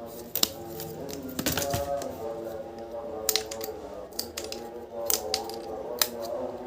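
Small hard puzzle pieces clicking as they are handled and fitted together, a few sharp clicks about a second apart, over background music.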